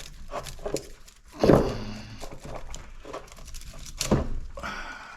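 Knocks and clicks of a small electric motor and its copper winding pieces being handled, with a louder thunk about a second and a half in and another near four seconds.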